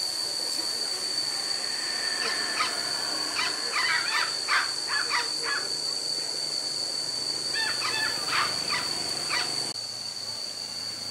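A bird calling in short harsh notes, in three quick runs, over a steady high-pitched whine.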